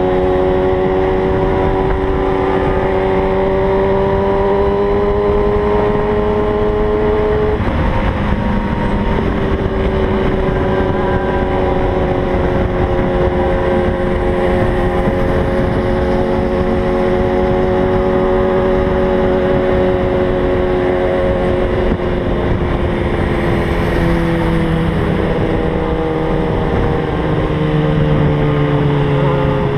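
Kawasaki ZX-6R inline-four sport bike engine under way at highway speed, with steady wind rush on the microphone. The engine note climbs slowly, then drops sharply at an upshift about seven seconds in and holds nearly steady. Near the end a second, lower engine note joins in.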